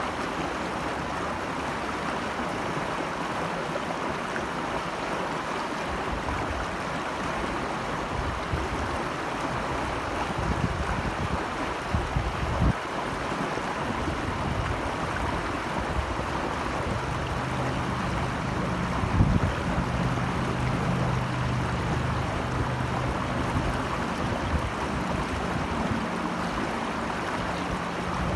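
Steady rush of flowing stream water. From about six seconds in, irregular low rumbles and thumps come and go under it.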